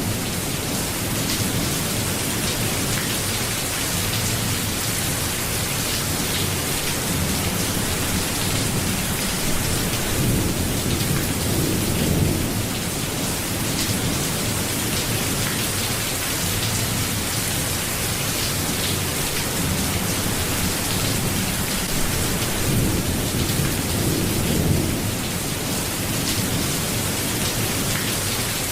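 Steady rain falling, with low rumbles of thunder swelling and fading a few times underneath.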